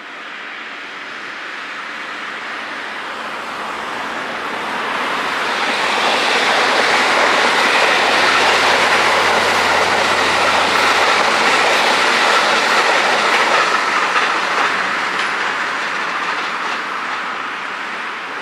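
A white limited-express electric train passing at speed and running away along the line. Its rush of wheels on rail builds to a peak about a third of the way in, with clickety-clack over the rail joints and a low motor hum, then slowly fades as it recedes.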